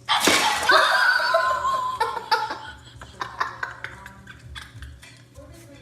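Laughter that breaks out suddenly and is loudest for the first two seconds, then dies down amid scattered short clicks and knocks.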